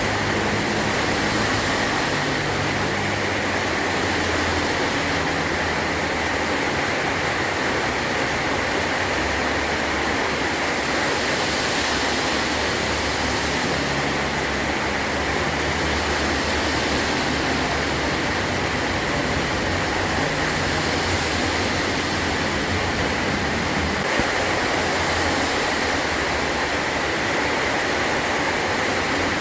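Heavy rain falling steadily on a metal roof, an even, dense hiss with no breaks.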